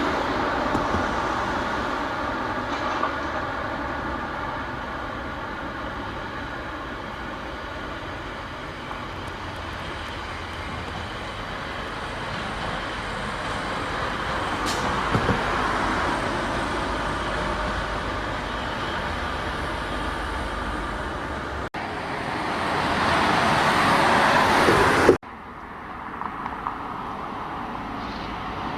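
Heavy vehicle engines running and passing, a steady hum that fades and swells. About three quarters of the way through the sound cuts off abruptly, a louder rising rush follows, and that too stops sharply before a quieter steady hum.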